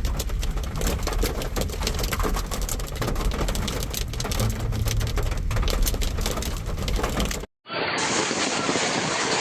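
Hailstones pelting a hard surface in a dense, rapid clatter of sharp clicks. The clatter cuts off suddenly about seven and a half seconds in, and after a brief gap a steady rushing hiss takes over.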